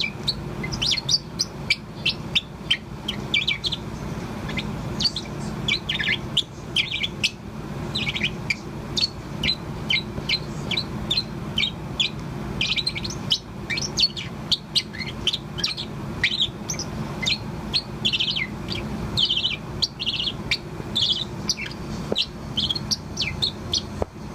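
Young Bourke's parrot singing: a continuous run of short, rapid chirps and twitters, over a steady low hum.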